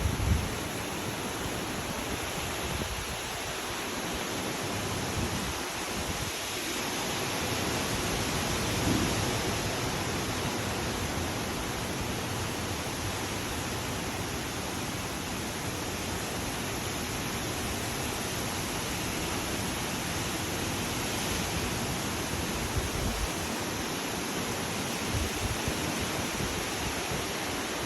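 Hurricane wind and rain: a steady rushing noise, with gusts thumping on the microphone now and then.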